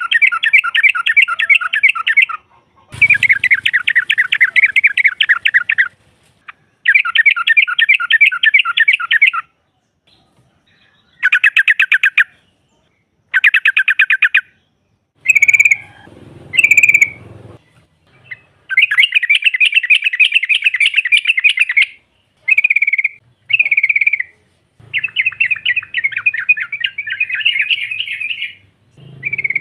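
Yellow-vented bulbul (trucuk) chattering: a string of rapid trilled phrases, each one to three seconds long with short gaps between, and a few short single calls in the middle and near the end. This is the 'ngropel' chatter of a female calling a male.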